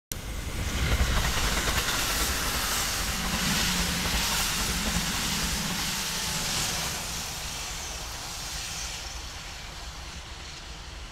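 Kintetsu express train running past at speed: a loud rush of wheels on rail that fades away over the second half.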